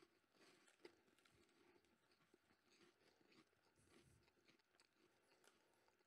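Faint chewing of an Umaibo salami-flavoured puffed-corn stick, with small crunches and clicks as it is bitten and chewed; the snack is soft rather than crisp.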